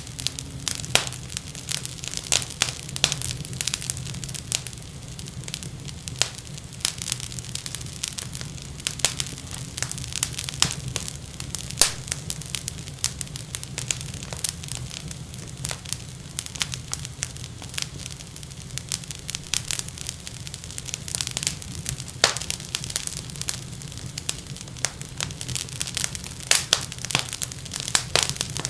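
Wood fire crackling in a fireplace: many irregular sharp pops and snaps, several a second, over a steady low hum.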